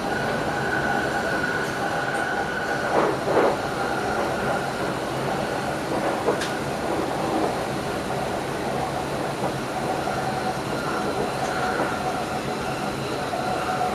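Electric passenger train running at speed, heard from inside the driver's cab: a steady rumble with a high whine, two knocks from the wheels about three seconds in, and a sharp click a little later.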